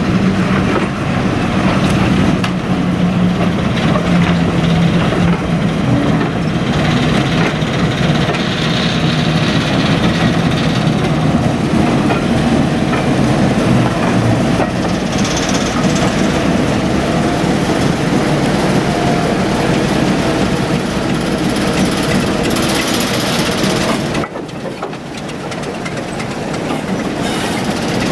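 Heritage diesel locomotive's engine running as a train moves along the line, with wheels clicking over the rail joints. The sound drops suddenly near the end, then builds again.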